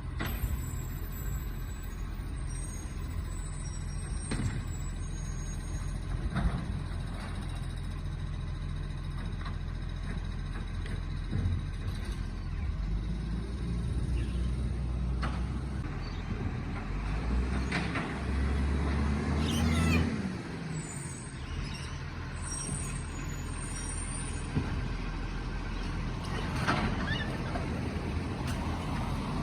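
Garbage truck's diesel engine running steadily, with several short air-brake hisses. The engine grows louder for a few seconds about two-thirds of the way through, then drops away.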